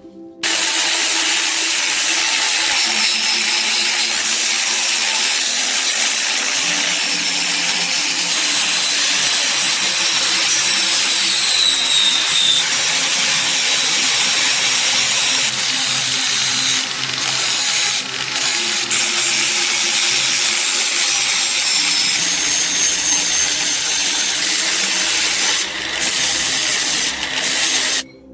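A power tool running steadily while removing rust from metal, with a few brief pauses in the last third.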